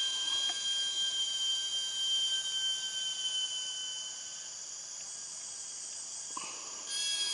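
Forest insects droning steadily at several high, fixed pitches. The drone fades out partway through and starts up again near the end, with a couple of faint knocks just before it returns.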